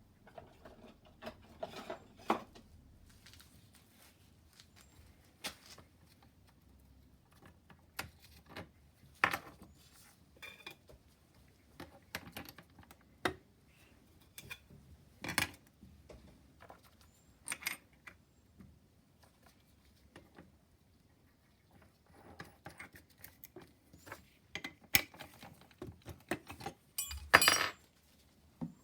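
Scattered metallic clinks and knocks of tools and metal parts being handled, with a short burst of louder clattering near the end.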